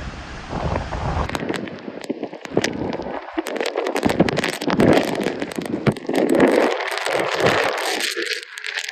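Hurricane-force storm noise: a rushing haze of wind, broken by many sharp crackling taps and knocks throughout.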